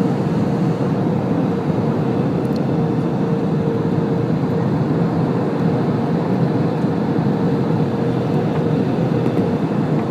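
Steady airliner cabin noise in flight: an even rumble of engines and airflow with a faint steady hum held throughout.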